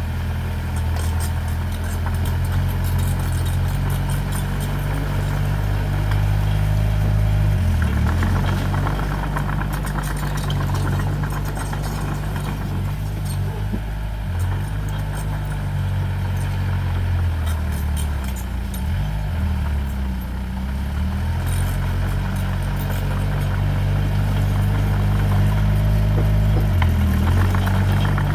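Diesel engine of heavy construction machinery running under load, its revs dipping and rising several times, with light metallic clatter over it.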